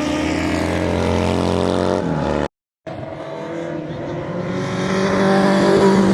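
Classic racing motorcycle engines running at speed. One engine note drops slightly in pitch just before a brief break about two and a half seconds in. After the break, another bike grows steadily louder as it approaches.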